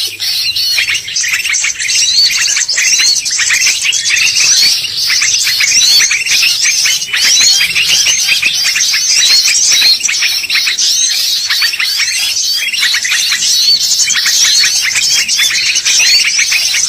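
Bar-winged prinia (ciblek) singing, a rapid, unbroken stream of high chirps and quick sweeping notes; a recorded ciblek call of the kind used as a lure.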